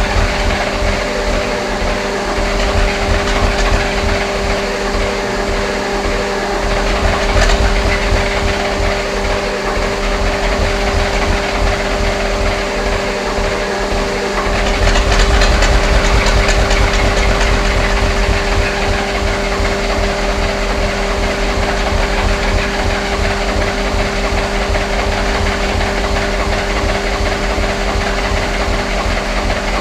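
Freshly rebuilt six-cylinder Eicher diesel engine running steadily with an even rhythmic beat, growing louder for a few seconds about halfway through.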